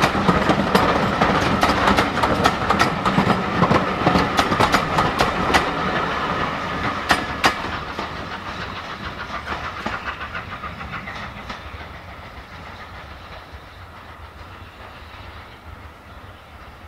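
Passenger coaches of a steam-hauled train clattering over the rail joints as they run close past. The clicks thin out about eight seconds in as the last coach goes by, and the sound fades steadily as the train draws away.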